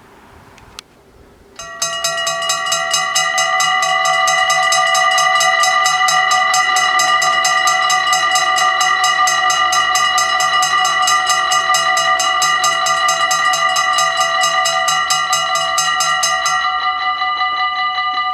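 Dutch AHOB level-crossing warning bells start ringing about two seconds in: a loud, rapid, even clanging with several bell tones overlapping. Near the end the sharpest striking drops away while the ringing carries on.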